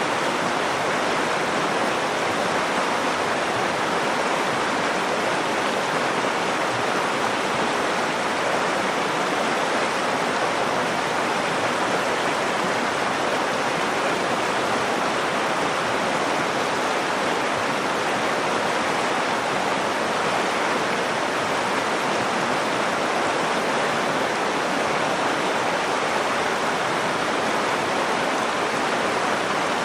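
River water rushing and babbling over rocks: a steady, even flow with no breaks.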